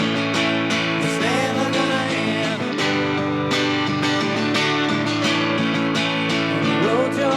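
Band music led by strummed guitar, with a melody line that glides up and down about a second in and again near the end.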